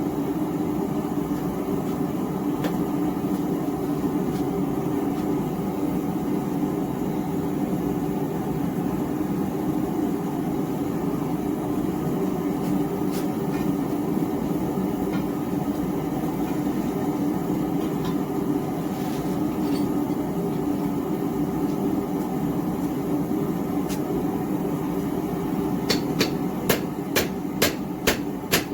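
Small propane gas forge's burner roaring steadily. About three seconds before the end, quick, even blows of a roughly two-pound cross-peen hammer start ringing on hot steel on the anvil, about two or three a second.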